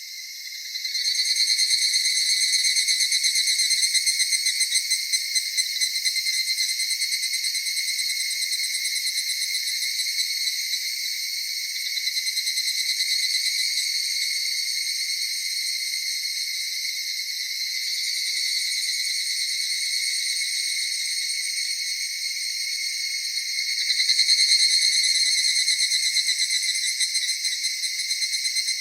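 Chorus of autumn night insects: crickets trilling steadily in several overlapping high-pitched, finely pulsing trills. It grows louder about a second in and swells again later on.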